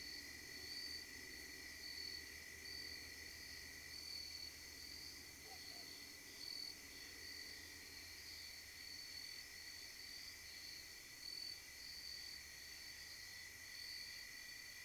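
Crickets and other night insects chirping steadily: a high pulsing trill over a constant lower drone.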